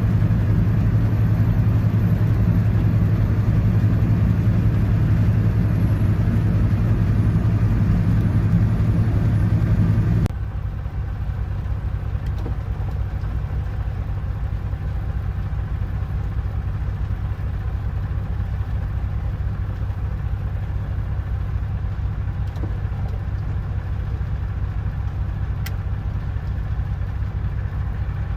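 Truck engine idling with a steady low hum; about ten seconds in it drops suddenly to a quieter level and keeps idling.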